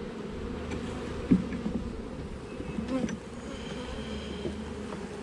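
A mass of honeybees buzzing around an opened hive, a steady drone. A short knock about a second in.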